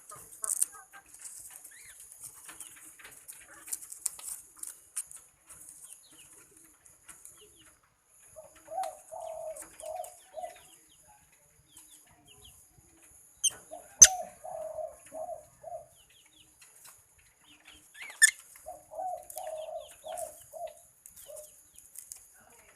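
A dove cooing in three runs of five or six notes, over faint high bird chittering, with one sharp click partway through.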